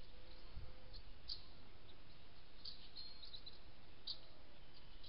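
Small birds chirping: a few short, high chirps spaced a second or so apart, with a quick cluster about three seconds in, over a steady outdoor hiss. There is a soft low thump about half a second in.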